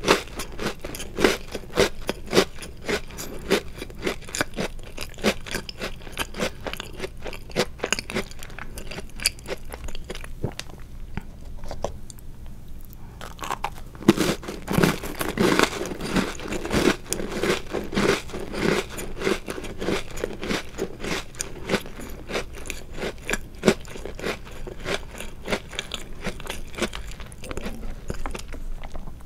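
Chewing and crunching of chocolate-covered Oreo cookies: a quick run of crisp crunches that eases off for a couple of seconds a little before halfway, then crunching again, louder.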